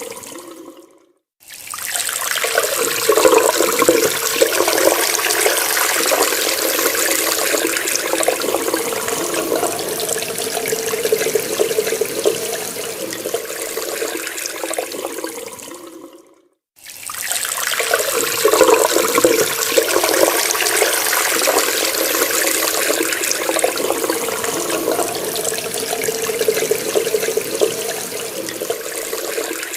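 Water running from a tap in a steady splashing stream. It fades and stops for a moment about a second in and again about halfway, each time starting again at once.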